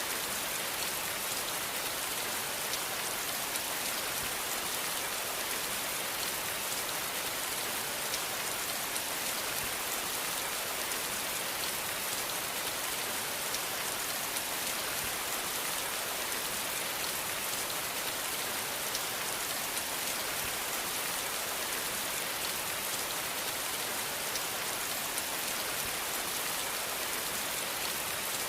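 Steady rain falling, an even hiss with many small drop patters on a surface.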